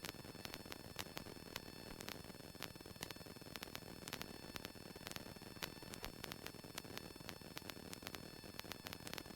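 Faint static hiss from the aircraft intercom audio feed, with a few steady high tones and many small irregular clicks.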